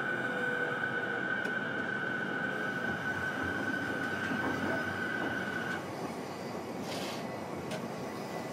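JR East E233-series electric train heard from inside the car while running, a steady rumble with a high steady squeal over it. The squeal stops about six seconds in, and a brief hiss follows about a second later.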